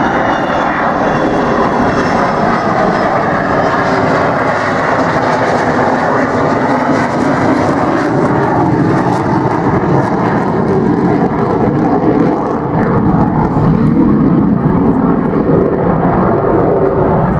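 Avro Vulcan jet bomber flying past, its four Olympus turbojets giving a loud, steady jet roar. A faint high whine slides down in pitch over the first few seconds.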